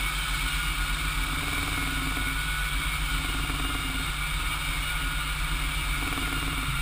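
Dustless floor sander with an on-board vacuum running steadily: a constant motor drone with a steady high whine over it.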